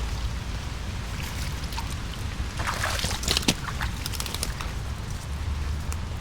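Rain in a wet autumn forest: scattered drips and patters on leaves, with a denser patch of rustling and pattering about three seconds in, over a steady low rumble.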